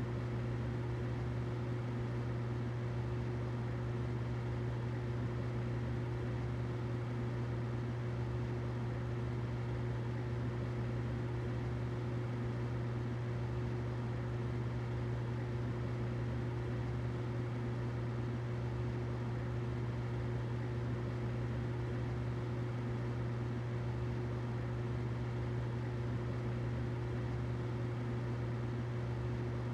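Humidifier running steadily: a constant low hum with a soft hiss over it.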